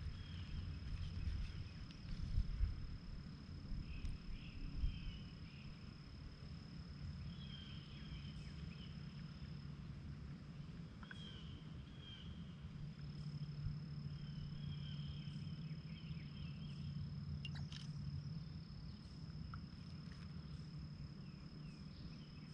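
Outdoor creekside ambience: a steady high insect trill, breaking off for a few seconds in the middle, with repeated short chirps and a low rumble underneath. There are a few handling knocks in the first few seconds.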